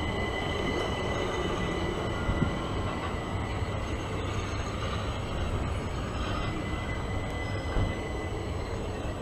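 Southern electric multiple-unit train moving along the platform: a continuous low rumble with a steady high whine, and two sharp knocks about two and a half seconds and eight seconds in.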